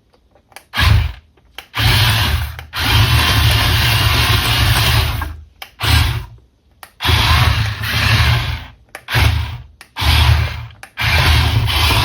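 Small electric motor of a toy RC car whirring in repeated bursts, starting and stopping abruptly, with one longer run of about three seconds near the start.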